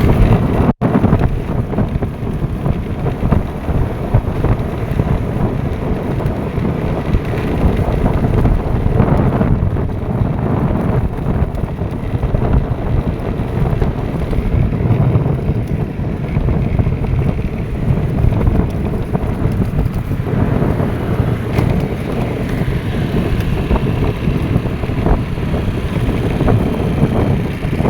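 Loud, steady rushing noise of water pouring down onto a road, with wind buffeting the microphone.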